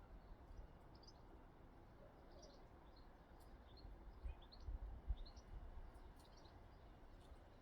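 Faint, scattered short high chirps from small garden birds over a low background rumble, with a soft low thump about five seconds in.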